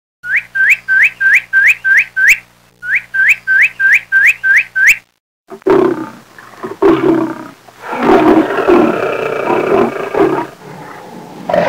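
Two quick runs of sharp, rising chirps, about four a second and eight in each run, then after a short break a large animal giving loud, deep, rough calls, several in a row.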